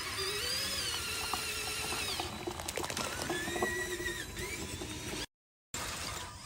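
Small electric motors and gearboxes of RC construction machines whining, their pitch wavering and gliding up and down as they work, with a rattle of clicks in the middle. The sound cuts out completely for about half a second shortly after five seconds, then the whine resumes.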